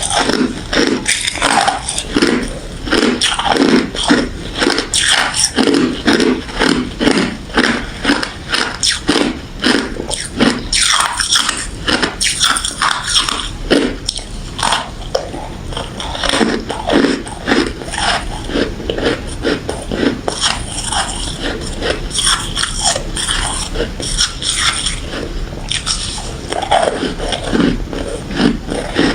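Close-up crunching of refrozen crushed ice and freezer frost being bitten and chewed in the mouth, with quick, repeated crunches of about two to three a second.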